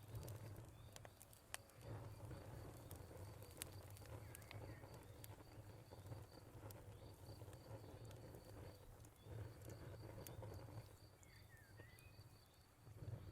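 Faint wood fire crackling in a fireplace: irregular sharp pops and snaps over a low rumble of burning. A faint, high, evenly pulsing chirp runs through it much of the time.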